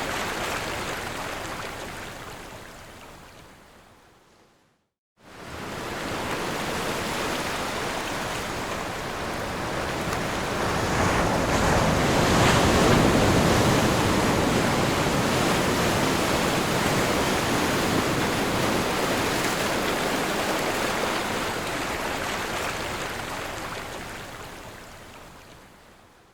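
Sea waves washing in, a continuous rushing surf. It fades out about five seconds in, is briefly silent, then comes back, swells to its loudest a little past the middle and fades away near the end.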